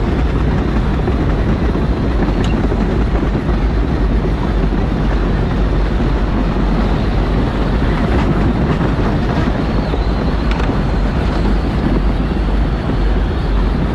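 Power Wheels electric ride-on car driving, its motor and drivetrain running steadily under a continuous low rumble, with a faint high motor whine in the second half.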